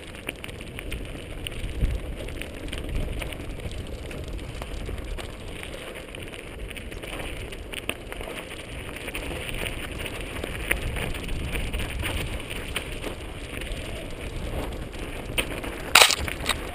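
Mountain bike riding down a dirt trail: tyres crackling and rumbling over loose dirt and gravel, with the bike rattling over small bumps. A sharp knock near the end.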